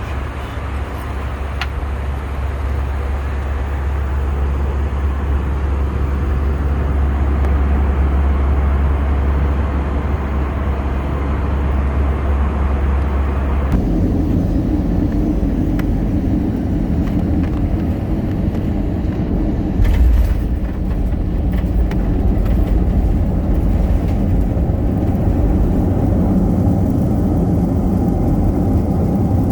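Steady low rumble of a jet airliner heard from inside the passenger cabin. About halfway through the sound changes abruptly to a duller, deeper-sounding rumble, and a brief bump comes a few seconds later.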